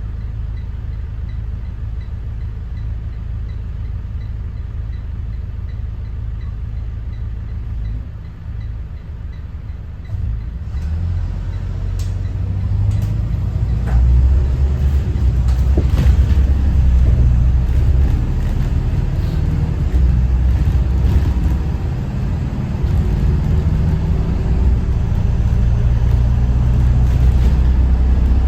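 Thomas Saf-T-Liner C2 school bus's Detroit diesel engine running with a steady low rumble, growing louder about ten seconds in along with road noise and a few sharp rattles.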